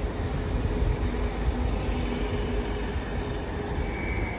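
Train running at a station platform: a steady low rumble with a faint hum over it, and a brief high whine near the end.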